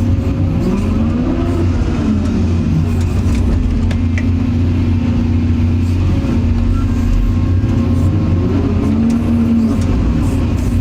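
Excavator's diesel engine running steadily, with a whine that rises and falls in pitch twice as the hydraulics work the arm and bucket.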